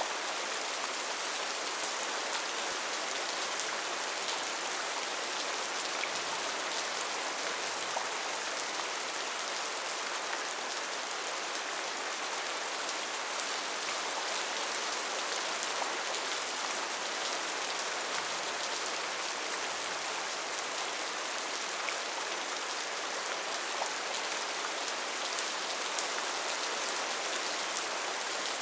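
Steady rain falling on a tin roof, an even hiss with scattered single drops ticking out of it.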